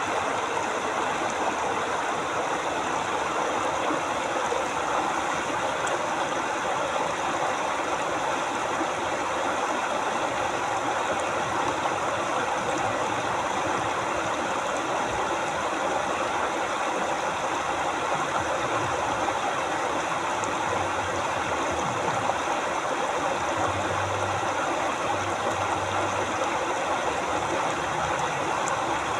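River water flowing steadily over rocks, an even rushing babble. A faint low hum comes and goes in the second half.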